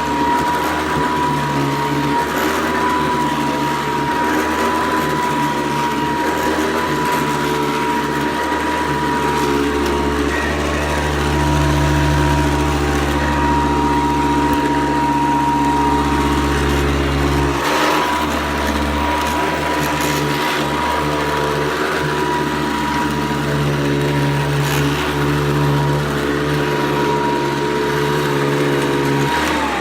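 A 1990 Hoover Convertible 700 Heavy Duty upright vacuum cleaner running, its motor giving a steady high whine over a low hum. Near the end the whine starts to fall in pitch as the motor winds down.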